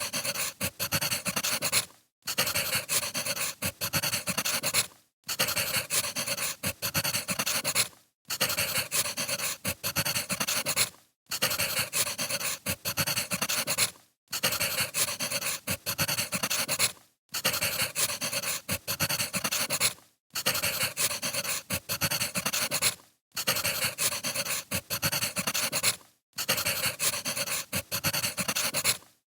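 Wood fire crackling, a dense run of small pops and snaps. The sound cuts out briefly about every three seconds, like a short recording played on a loop.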